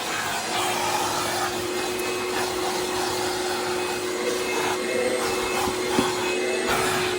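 Vacuum cleaner running with a steady motor whine over a rushing suction noise, vacuuming out a car's interior. There is a small knock about six seconds in.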